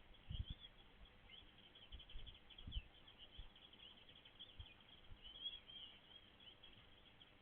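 Faint, distant small birds chirping: many short, high chirps overlapping throughout, with a few soft low thumps near the start and about two and a half seconds in.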